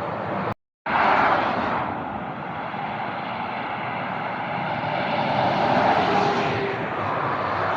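Steady rushing noise of road traffic, with passing vehicles' engines and tyres. It cuts out completely for a moment just after the start, then swells louder about five to six seconds in as a vehicle goes by.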